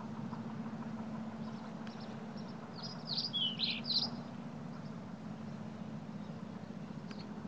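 Birds chirping: scattered short high chirps, with a brief cluster of quick calls about three to four seconds in, over a steady low hum.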